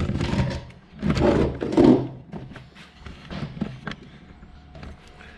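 Small metal parts and tools being handled on a workbench: scraping and clunking in the first two seconds, then light clicks and taps.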